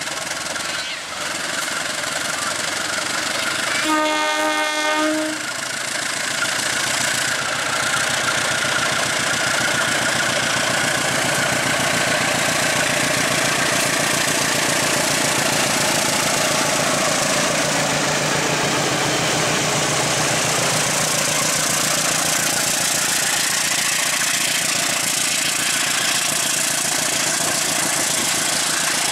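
A diesel locomotive's horn sounds one blast of about a second and a half, about four seconds in. Then the locomotive and its passenger coaches pass close by: a steady loud rush of engine and wheels on the rails.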